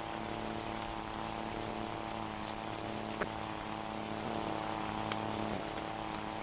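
Scania Super 540 truck engine running steadily through a straight-pipe exhaust, with one sharp click about halfway through.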